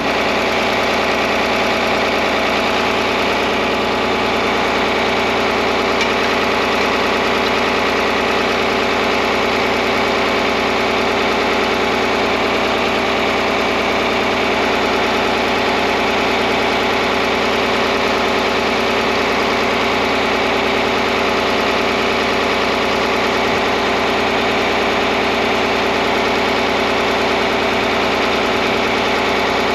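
John Deere 4010 tractor engine idling steadily, with an unchanging even rhythm.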